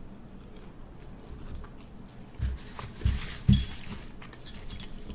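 Close-up eating sounds from chewing an egg roll: faint clicks, a few soft thumps between two and four seconds in, and a short hiss just after three seconds.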